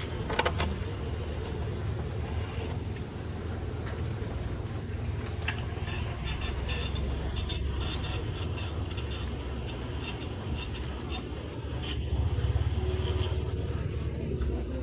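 A vehicle's steady low rumble, with bouts of quick light metallic rattling over it.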